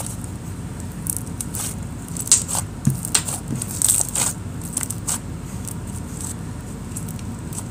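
Slime being stirred with a spoon in a plastic mixing container with magic-eraser foam cubes in it: irregular crackling, clicking and squishing.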